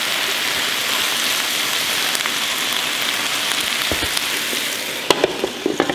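Chopped eggplant, peppers and tomatoes sizzling in a hot electric skillet: a steady frying hiss. Near the end come a few sharp knocks as the glass lid goes on and the sizzle is muffled.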